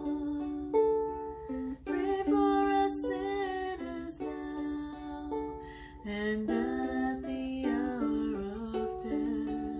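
Ukulele played slowly and gently, one note or chord after another, in a small room.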